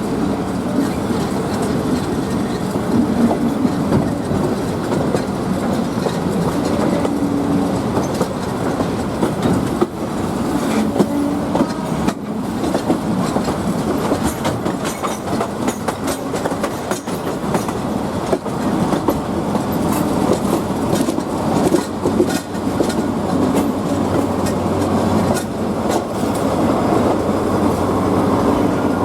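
Train running along the track, its wheels clacking over rail joints, with a steady rumble throughout.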